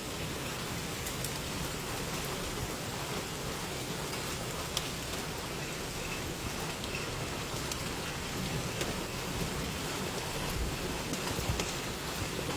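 Steady rain drumming on a pickup truck, heard from inside the cab, with a few sharper ticks of single drops or small hailstones scattered through it.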